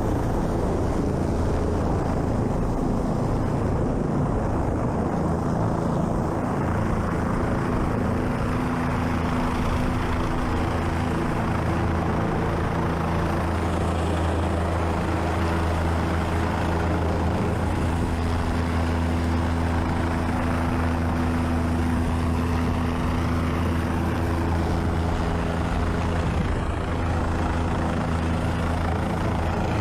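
Helicopter running: a loud, steady drone with a strong low hum and several held tones above it, never changing in loudness.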